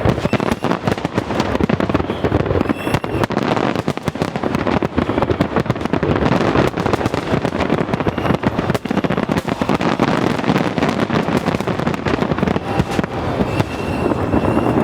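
Fireworks display: a dense, continuous barrage of aerial shell bursts and crackle, the bangs overlapping one another.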